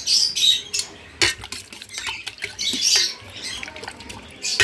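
Pet African lovebirds chattering in a run of short, harsh, high-pitched squawks, with a sharp click about a second in.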